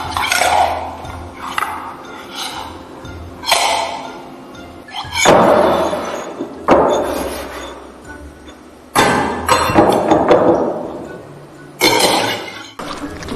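Foley sound effects: a string of about six sudden crashing hits, each ringing out and fading over a second or more.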